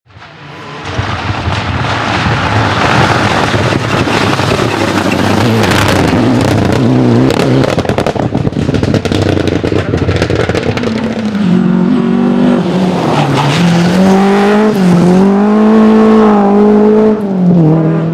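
Rally cars at speed on a stage: engines at high revs, a dense noisy rush at first, then one engine's note clearly rising and falling as it revs through the gears and lifts off.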